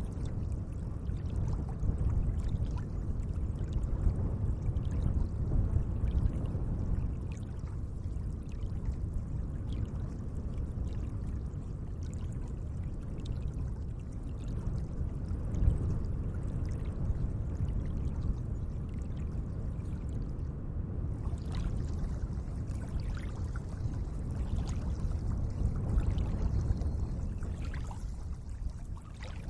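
Gentle lake water lapping and trickling: a continuous low wash with small splashes scattered through it.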